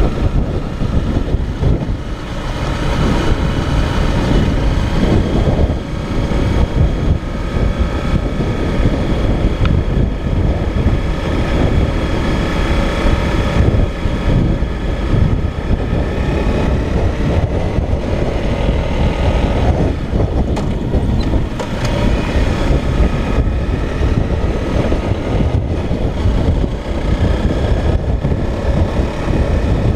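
Motorcycle engine running under way, with heavy wind rumble on the microphone; the engine note shifts pitch a few times.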